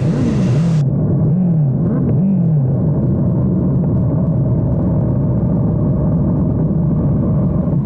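Motorcycle engine and wind rumble heard through an action camera's heavily muffled microphone, with almost no treble. The engine note dips in pitch a few times in the first few seconds, then settles into a steady low drone. The muffling is put down to the camera's wind protection mode, or to the exhaust and wind overloading the mic.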